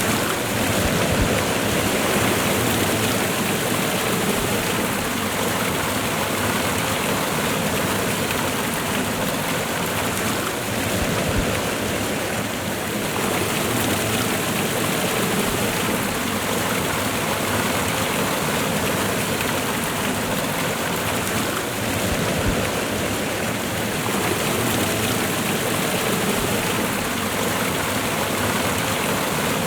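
Waterfall and fast-running river water, a steady, even rush of falling and flowing water.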